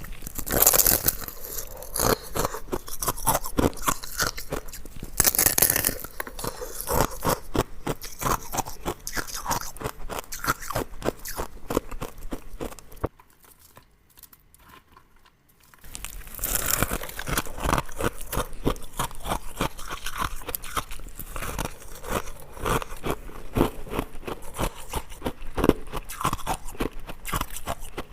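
Ice cubes being bitten and chewed: dense, rapid crunching and cracking. It pauses for about three seconds a little before halfway, then resumes.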